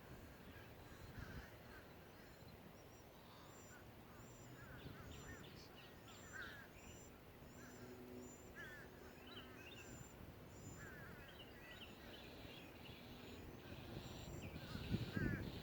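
Faint chorus of wild birds calling, with many short chirping notes repeated throughout. A brief louder sound comes near the end.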